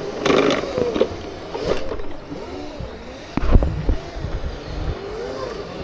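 Segway's electric motors whining as it rides, the pitch wavering up and down, with a few knocks and one heavy low thump about three and a half seconds in.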